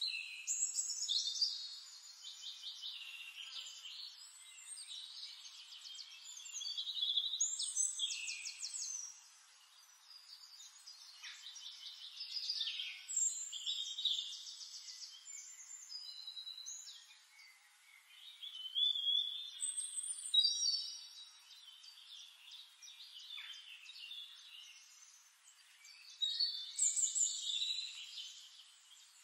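Songbirds singing, from a recorded nature-sound track: high chirping phrases and fast trills that come in bursts every few seconds, with the loudest phrases near the start, around a third of the way in, about two-thirds in and near the end.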